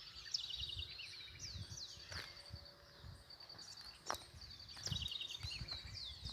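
Birds singing: repeated high, downward-sliding whistled notes and short rapid trills, over a steady high pulsing buzz. A few low thumps and a sharp click about four seconds in.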